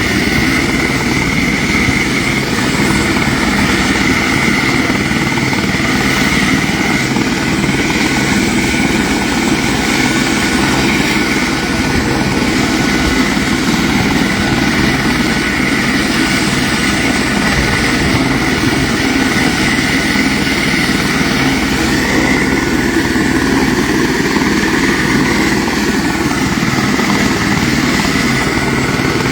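An engine running steadily, with a constant high whine over a low hum.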